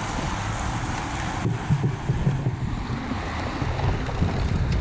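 Wind noise on the microphone and road noise as a group of road cyclists rides past, an even rushing with rougher low rumbles in the middle.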